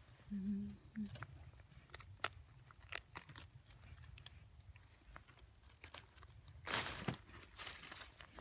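Rustling and crinkling of hands handling and picking, with scattered small clicks and a short low tone about half a second in. There are two brief bursts of louder rustling near the end.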